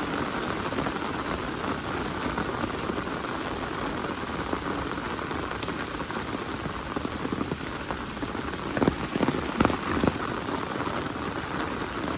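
Heavy rain falling steadily on the ground and surfaces, with a few louder, closer drops splashing about nine to ten seconds in.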